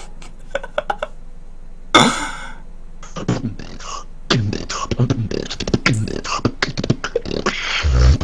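A person beatboxing: a few clicks and a short burst, then from about three seconds in a fast, dense run of percussive mouth sounds that gets louder near the end.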